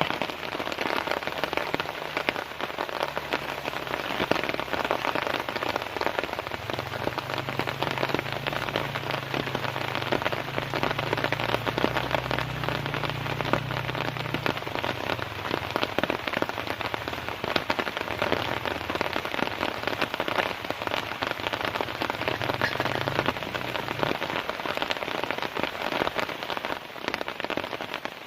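Heavy, steady rain pattering on a tent, a dense hiss of many drops. A faint low hum sits underneath for most of it and fades out near the end.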